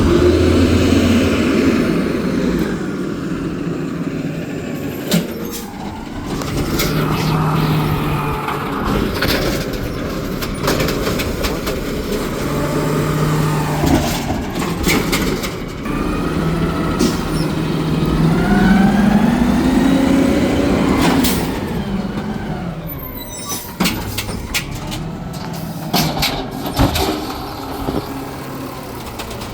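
Garbage truck engine running and repeatedly revving up and down, as when it powers the hydraulics, with a run of sharp clanks and bangs near the end.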